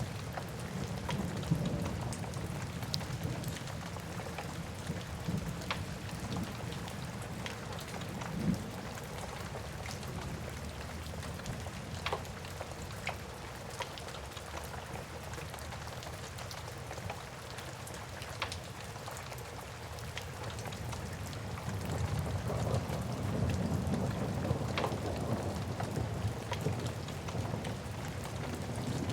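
Steady rain with a low rumble of thunder that eases off in the middle and swells again near the end. Scattered sharp pops come from a crackling wood fire.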